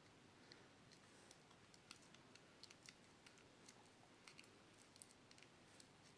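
Near silence with faint, irregular light clicks and ticks of small parts and wire being handled.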